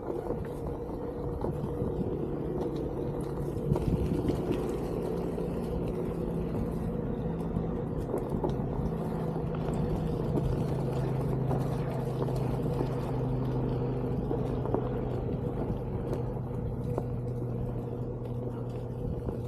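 Onewheel GT electric skateboard riding along a trail: the hub motor's steady whine shifts in pitch with speed, over a continuous low rumble from the tyre on the ground.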